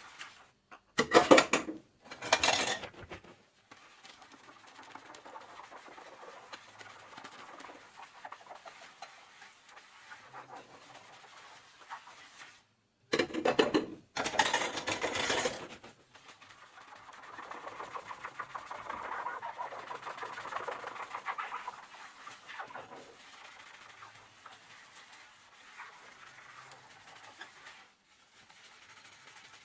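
Hand dishwashing at a kitchen sink: a soapy sponge scrubbing dishes in fast, fine strokes, louder and busier for several seconds past the middle. Three short loud sounds break in: two near the start and a longer one of about three seconds a little before the middle.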